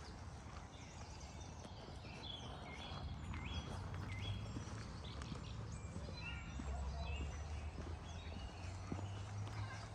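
Several birds chirping with short, high notes, some sliding down or hooking up in pitch, over a steady low rumble.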